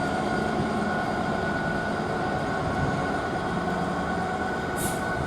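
Class 66 diesel-electric freight locomotive, with its two-stroke V12 engine, running steadily as it hauls its train away from a signal stop. The result is a constant drone with steady engine tones over a rail rumble, and a short hiss near the end.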